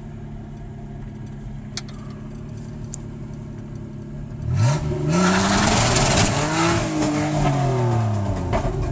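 Chevy S10 pickup's engine running steadily at low revs, then about halfway through revving hard, its pitch climbing and falling repeatedly under throttle. A loud rushing noise rises with the revs as the rear tires of the welded differential spin and slide.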